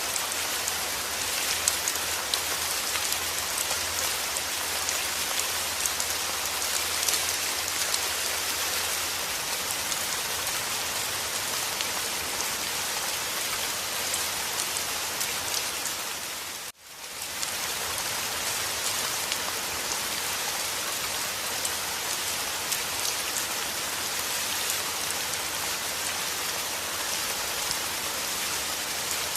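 Steady rain falling, a dense patter of drops. About two-thirds of the way through, the sound drops away briefly to near silence and fades back up within a second.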